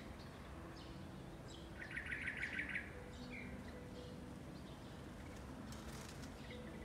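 Birds chirping and singing: a rapid trill of repeated notes about two seconds in, lasting about a second and louder than the rest, with scattered short chirps around it.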